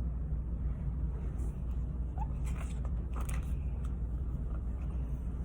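Steady low background hum with a few faint clicks and rustles about halfway through.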